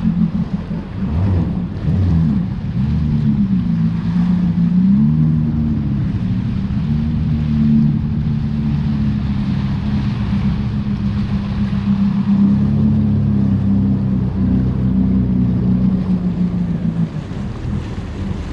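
Jet ski engine running at low speed, its pitch dipping and rising a few times with the throttle early on, then holding steady before dropping away near the end. Wind noise on the microphone underneath.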